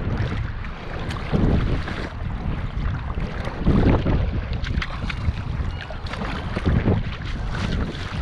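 Water sloshing and splashing around a sea kayak with wind rumbling on the microphone; the water surges louder about every two and a half seconds.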